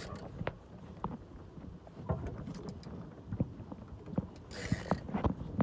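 Small sailboat under way: scattered knocks of water against the hull over a low wind rumble, with a brief rush of noise about four and a half seconds in.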